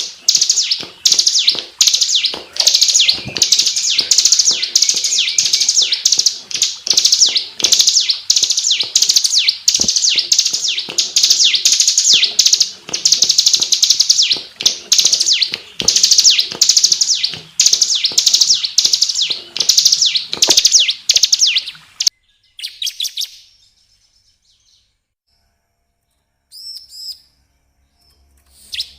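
Ciblek (bar-winged prinia) singing a loud, dense run of high chirping phrases, two or three a second. The song cuts off abruptly near the end, leaving only a few faint chirps.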